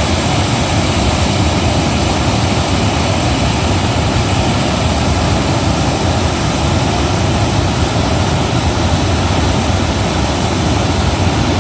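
Floodwater rushing: a loud, steady noise that holds without a break.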